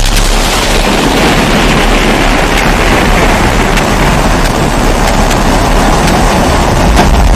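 Pressurised kerosene stove (primus-type babour) burner running with a loud, steady roar, with a few faint ticks scattered through it.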